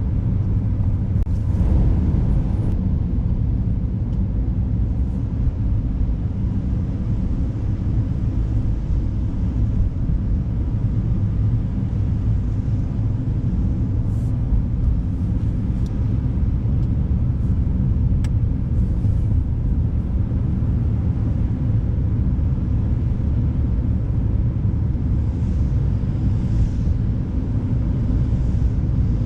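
Car driving along a snowy road, heard from inside the cabin: a steady low rumble of tyres and engine.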